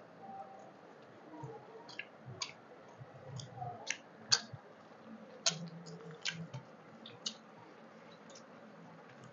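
Close-miked chewing of mouthfuls of rice and curry eaten by hand, with a scatter of sharp wet mouth clicks that come thickest in the middle and thin out near the end.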